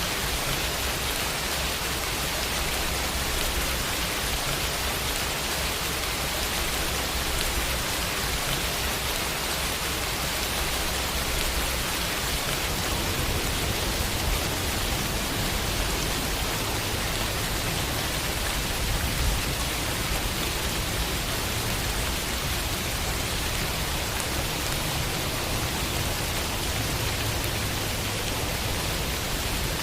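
Steady rain falling and pattering on a window, with a constant hiss and a low rumble underneath.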